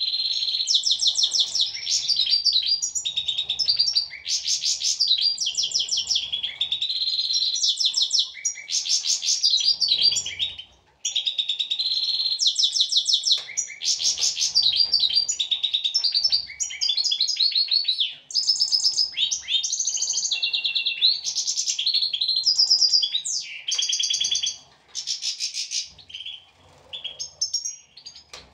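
European goldfinches singing: fast, jangling twittering and trills that run almost without a break, pausing briefly partway through and thinning to scattered calls near the end.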